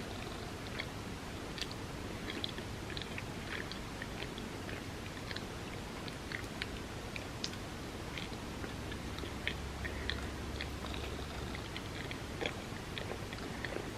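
Close-miked chewing and wet mouth clicks of someone eating a soft ice cream sandwich, with scattered small smacks throughout.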